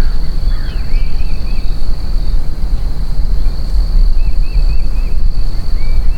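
Outdoor ambience dominated by a heavy low rumble of wind on the microphone, with a steady high-pitched insect drone. A small bird twice gives short runs of quick chirps, about a second in and again after four seconds.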